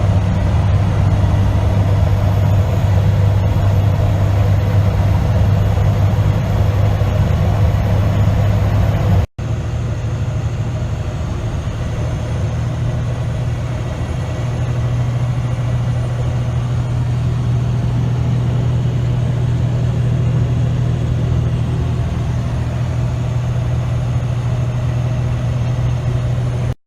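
Semi-truck running at road speed: a steady low engine drone with road noise. The sound cuts out for an instant about nine seconds in, and after that the drone sits a little higher in pitch.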